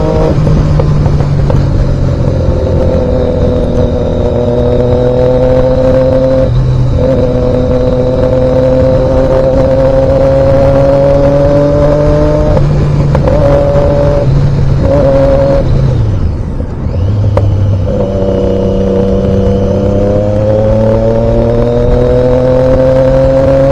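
Motor vehicle engine running under way at road speed. Its pitch climbs slowly and then drops back several times, as with gear changes or easing off, and dips most deeply about two-thirds of the way through.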